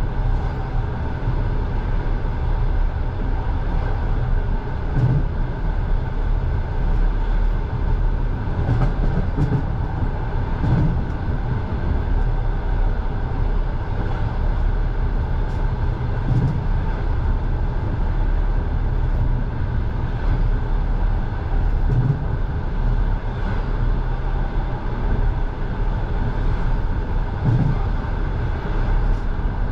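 Passenger train running at speed, heard from inside the carriage: a steady rumble of wheels on rails, with a few scattered low knocks from the wheels.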